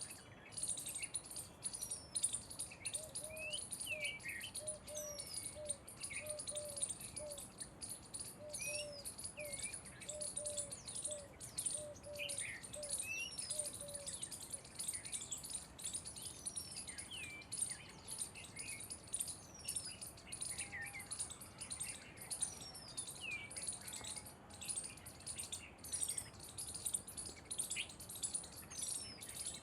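Birds calling, in a video of a jungle babbler flock: continuous high chirping with many short gliding whistled notes. A lower note repeats about once a second through the first half.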